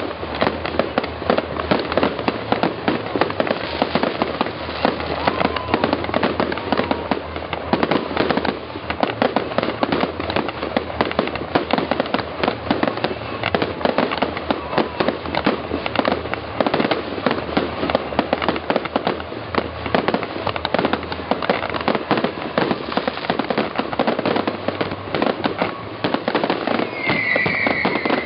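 Fireworks display: a dense, continuous barrage of rapid bangs and crackles, with a few brief whistles and a higher whistle near the end.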